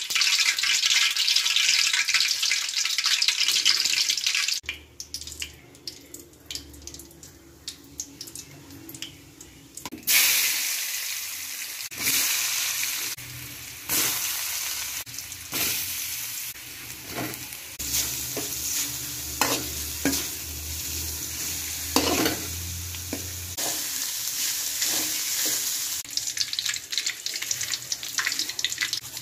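Hot oil sizzling in an aluminium kadai as soya chunks and spices fry, with short strokes of stirring against the pan. The sizzle is loud at first, drops low for a few seconds, and comes back strongly about ten seconds in.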